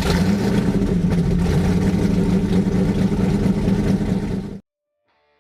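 Ford 289 small-block V8 running loudly and steadily on an engine dyno, then cutting off abruptly about four and a half seconds in. Faint guitar music starts near the end.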